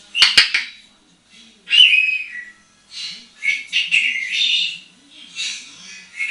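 African grey parrot vocalising: a couple of sharp clicks near the start, then a series of short whistles and squawky calls in bursts, with brief pauses between them.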